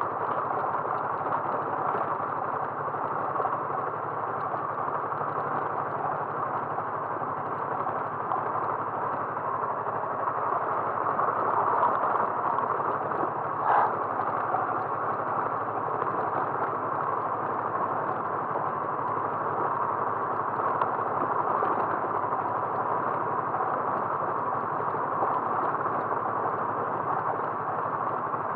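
Steady road and engine noise of a moving vehicle, with a low engine hum under an even rush, and a single short knock about 14 seconds in.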